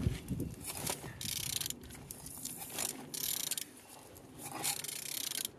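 Engine being turned over by hand: its internal parts rotate with a run of mechanical clicking and rasping whirs that come and go in stretches of about a second.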